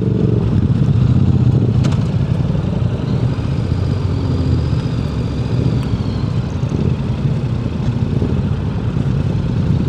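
Motorcycle engine running steadily while riding, a dense low drone throughout, with a faint high whine midway and a single click about two seconds in.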